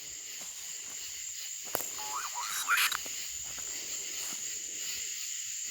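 Night insects, crickets, chirring steadily in a high, even drone. About two seconds in comes a short, faint rising call, with a single faint click just before it.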